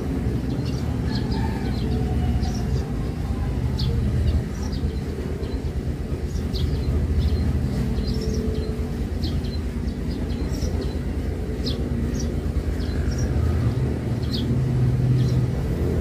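Small birds chirping in short, high calls, several times a second at times, over a steady low rumble.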